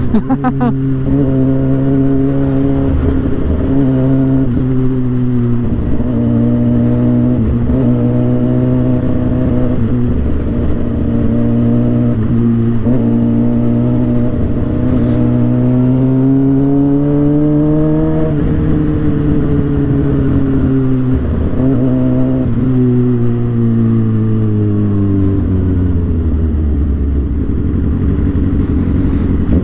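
2007 Suzuki GSX-R 750's inline-four engine and exhaust running under way, its pitch holding and rising with the throttle, broken by several brief dips. The note falls steadily in the last few seconds as the bike slows.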